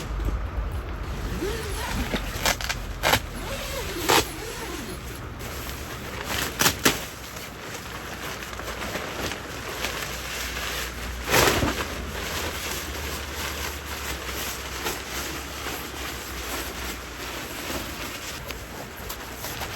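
Handling sounds: several sharp knocks and clicks, the loudest about eleven seconds in, over a steady rushing background, typical of a stream.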